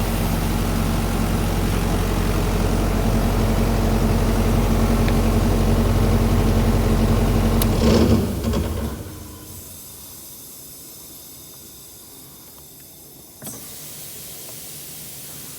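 Diesel engine of a DAS 180LB portable engine-driven air compressor running steadily, then shut down: it swells briefly about eight seconds in and runs down within a second. A steady hiss is left after it stops, with a single knock a few seconds later.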